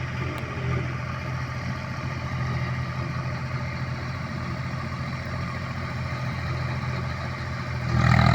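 Eicher 485 tractor's diesel engine running steadily at low speed, then suddenly getting louder near the end as it is throttled up.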